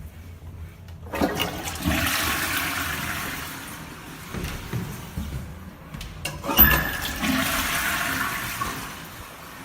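Public toilet flushing: a rush of water starts about a second in and dies away, then after a sharp click a second rush of water starts about six and a half seconds in and fades near the end.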